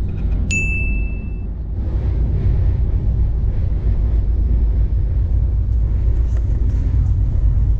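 Steady rumble of a passenger train coach running at speed, about 127 km/h, heard from inside the coach, growing a little louder over the first two seconds. A short high beep sounds about half a second in.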